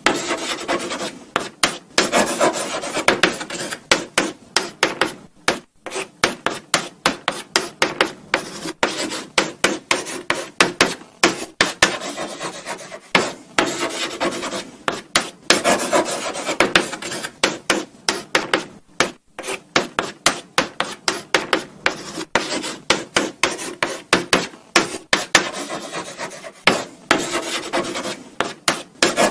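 Chalk writing on a blackboard: a quick run of short scratchy strokes with light taps as the chalk meets the board, several a second, broken by brief pauses.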